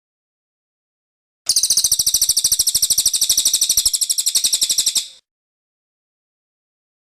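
Cililin bird singing one fast, high-pitched trill of rapidly repeated notes, starting about a second and a half in and lasting about three and a half seconds.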